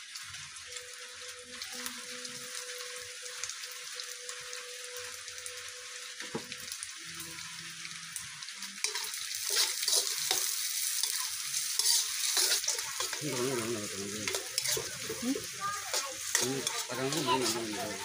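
Sliced onions frying and sizzling in oil in a wok, stirred with a metal spatula that scrapes and clicks against the pan. The sizzle and scraping get louder about nine seconds in.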